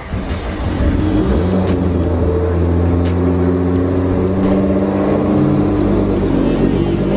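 A car engine running low and steady, mixed with background music with a faint beat.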